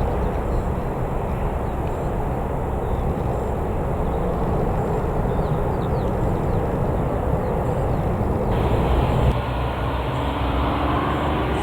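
Jet airliner engine noise, a steady rumble, with a rising engine whine coming in near the end.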